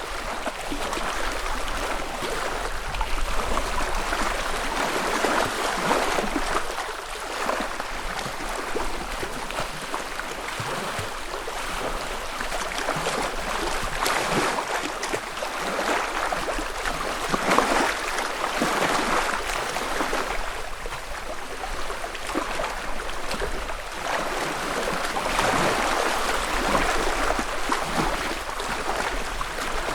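Small lake waves lapping at the shoreline, a gentle wash that swells and fades every couple of seconds with no steady rhythm.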